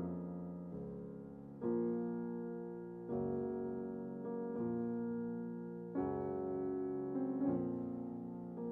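Background music: soft electric-piano chords, a new chord struck about every one and a half seconds and left to ring and fade.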